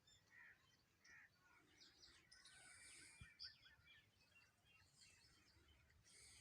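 Several wild birds chirping and singing faintly in a forest, in short high notes and quick trills, with a busier flurry of calls midway.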